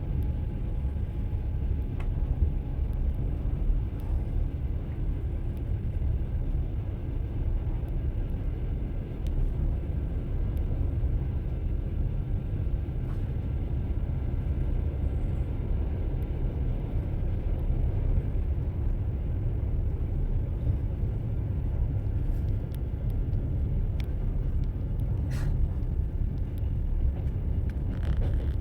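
Train wheels running over the rails: a steady low rumble with occasional light clicks, the clatter of a moving train.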